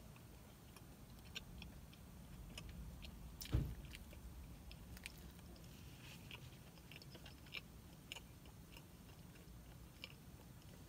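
A person chewing a mouthful of crispy chicken biscuit, faint, with small mouth clicks and smacks. One sharper knock stands out about three and a half seconds in.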